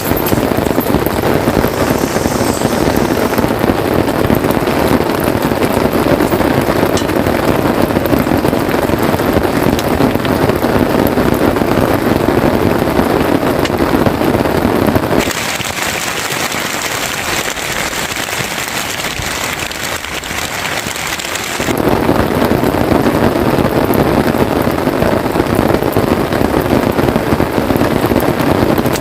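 Heavy rain pattering densely on tent fabric. From about halfway through, for several seconds, the sound turns thinner and hissier, then the fuller patter returns.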